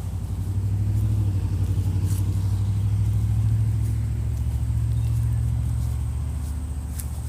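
A motor vehicle's engine running with a low, steady rumble. It grows louder over the first second and eases off near the end, as a vehicle passing by does.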